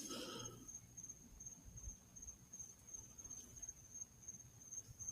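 Faint crickets trilling steadily on one high pitch, with a soft brief sound about half a second in.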